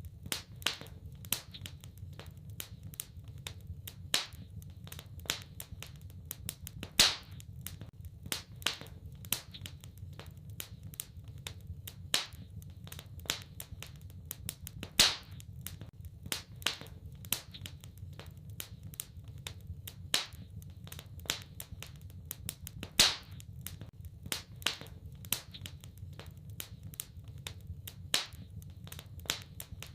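Wood fire burning in a fireplace: a steady low rumble of flames with constant crackling and frequent sharp pops from the logs, a few much louder than the rest.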